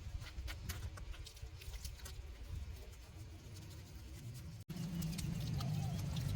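Scattered light clicks and taps over a quiet background. After a sudden break near the end of the fifth second, a steadier low hum with noise sets in.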